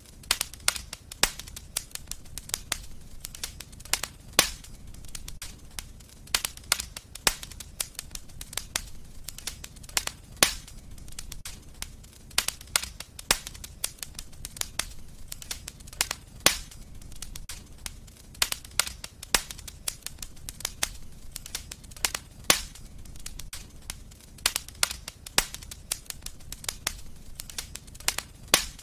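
Wood fire crackling and popping: irregular sharp snaps, a few louder pops among many small ones, over a low steady rumble of burning.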